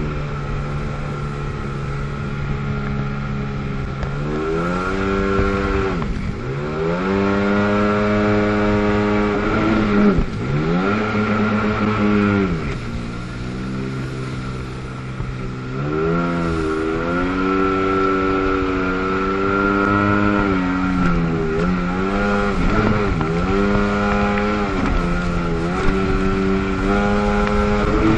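1997 Sea-Doo GTS personal watercraft's 720 two-stroke twin engine running hard, its pitch dropping and climbing again many times as the revs rise and fall.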